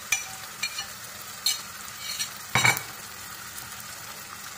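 Marinated chicken frying in hot oil with onions in a saucepan, a steady sizzle. A few light clinks in the first two seconds and one heavier knock about two and a half seconds in, as the bowl is emptied into the pan.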